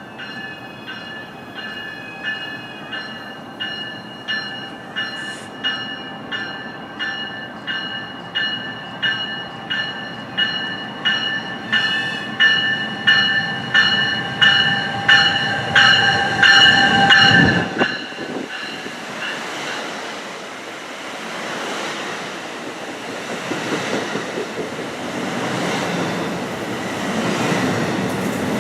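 A train's bell rings steadily, growing louder as the train approaches, and cuts off suddenly about 17 seconds in. The train then passes with a steady rushing rumble of wheels on rails.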